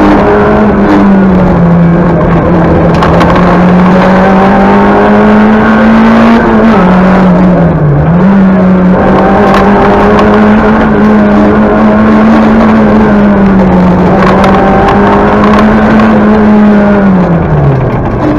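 Talbot Samba Group B rally car's engine, loud from inside the cabin, running hard at a near-steady high pitch. The pitch dips briefly about eight seconds in and falls away near the end.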